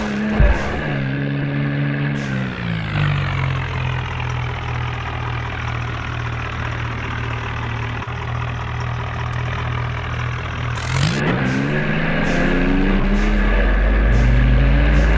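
John Deere tractor diesel engine running under load: its note drops about two seconds in and holds low and steady, then climbs again about eleven seconds in, with a deep rumble building near the end.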